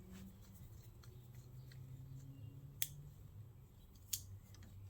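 Faint handling noises: a few small sharp clicks, two of them clearer about three and four seconds in, over a low steady hum.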